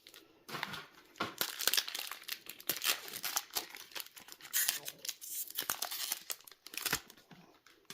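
Foil trading-card booster pack wrapper being crinkled and torn open, a run of irregular crackles and sharp snaps that thins out near the end.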